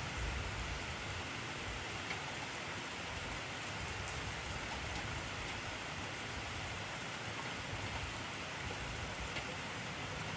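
Heavy rain falling steadily, a dense, even hiss with a few sharper drop ticks.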